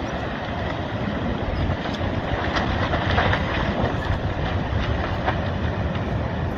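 Landslide pouring into the sea: a steady rumbling rush with a few faint cracks through it.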